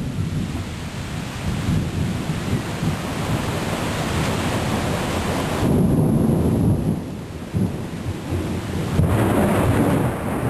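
Heavy rain pouring down through a thunderstorm, with a long rolling rumble of thunder that swells and is loudest about six seconds in.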